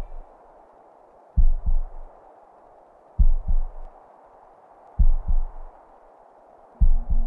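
Slow heartbeat sound effect: four deep double thumps (lub-dub), about one every two seconds, over a faint steady hiss.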